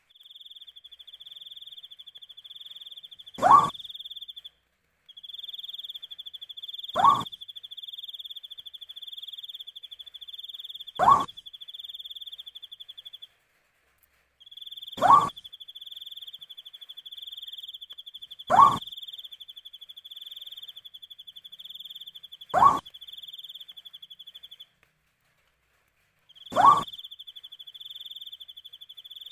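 An owl calling a short single note about every four seconds, seven times, over a continuous high pulsing insect trill that stops briefly twice.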